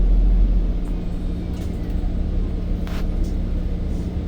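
City bus running, heard from inside the cabin: a steady low engine drone over road rumble, with one sharp click about three seconds in.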